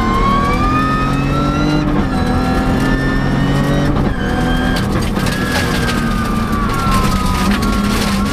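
Rally car engine heard from inside the cockpit on a gravel stage, revs climbing with upshifts about two and four seconds in, then falling slowly as the driver eases off, with gravel and tyre noise underneath.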